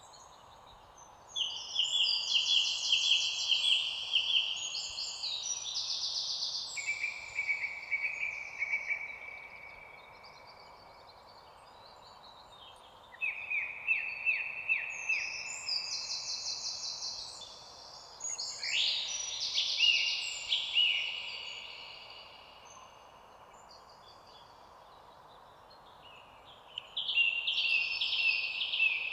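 Birds singing in bouts of rapid, high-pitched trills, several phrases overlapping, over a faint steady background hiss. The song comes in four bursts with pauses of a few seconds between them.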